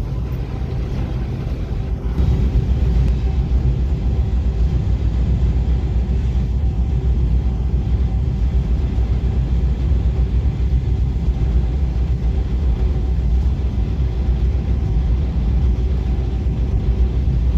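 Freight train rolling past with a steady, heavy rumble that gets louder about two seconds in.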